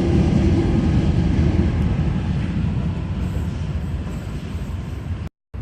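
Sydney Trains M-set (Millennium) electric train rumbling as it pulls away, the noise slowly fading. It cuts off abruptly near the end.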